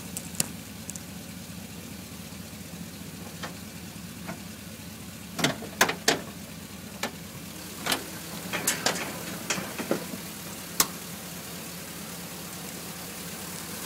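Truck's 6.0-litre GM gas V8 idling steadily under a cluster of sharp metallic knocks and clicks as the tilted cab is lowered back down onto its mounts, the loudest knocks about halfway through.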